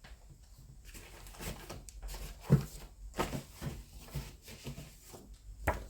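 Magazines and packaging being handled on a table: irregular rustles and light knocks, the loudest about two and a half seconds in and another near the end.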